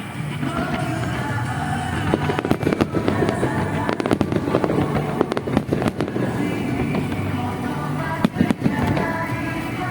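Aerial fireworks bursting and crackling over music, the bangs coming thick and fast from about two seconds in.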